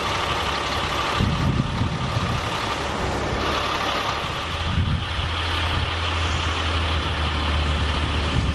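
A motor vehicle engine running, a steady low hum that grows stronger about halfway through, over a constant hiss of traffic or wind.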